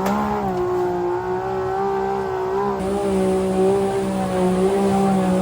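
ATV engine running at high, steady revs, its pitch wavering slightly but held throughout.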